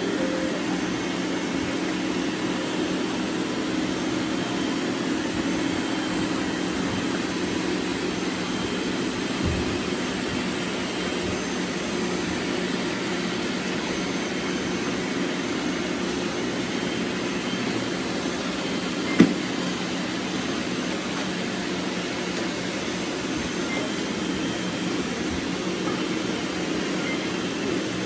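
Robot vacuum cleaners running: a steady whirring hum of their motors and brushes. One sharp click or knock about two-thirds of the way through.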